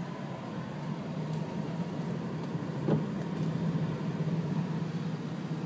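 Car running with a steady low hum of engine and road noise, and one short click about three seconds in.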